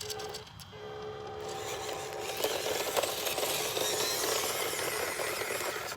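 Small 1/18-scale RC truck's electric motor and gears whining. About two seconds in, a louder gritty scraping takes over as its tires scrabble on dirt and rock.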